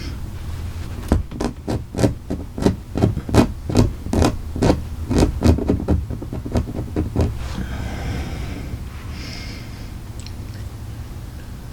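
A run of light scratching taps, about three a second, stopping about seven seconds in, followed by a fainter rustle: a cat pawing and scratching.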